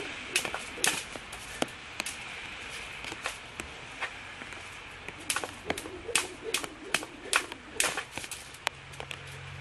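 Jump rope slapping the ground with each turn: sharp smacks a little over two a second, sparser and uneven for a few seconds in the middle.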